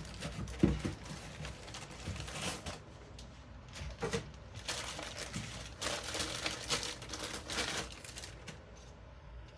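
Packaging rustling and crinkling in irregular stretches as CPU cooler fans are handled and unpacked, with a sharp knock about half a second in.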